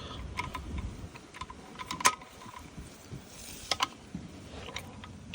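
Scattered light metallic clicks and clinks of a hand ratchet and tools as a part is tightened back on, with one louder click about two seconds in.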